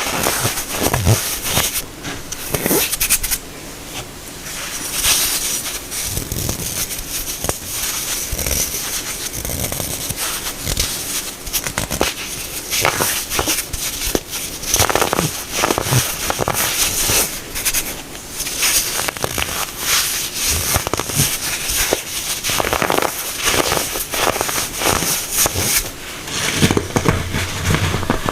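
Compressed baking soda being crushed and crumbled: a dense, continuous crackling crunch of many sharp little cracks, easing off briefly a few seconds in.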